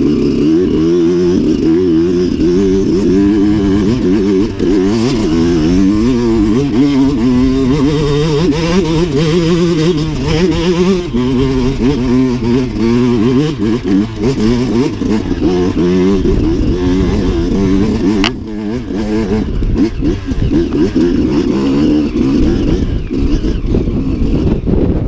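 Dirt bike engine being ridden hard, its note rising and falling constantly with the throttle. It eases off briefly about eighteen seconds in, with a sharp click, then picks up again.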